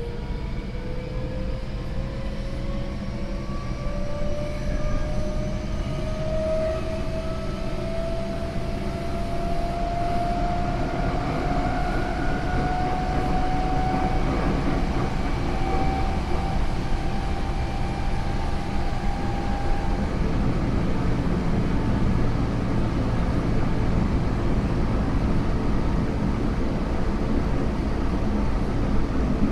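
Onboard running sound of a Tokyo Metro 08 series train with a Mitsubishi IGBT VVVF inverter. The inverter and traction-motor whine rises steadily in pitch as the train gathers speed, then drops away about twenty seconds in, leaving the steady rumble of wheels on rails.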